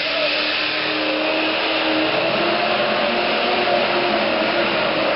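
Pro stock pulling tractor's turbocharged diesel engine running hard and steady under load.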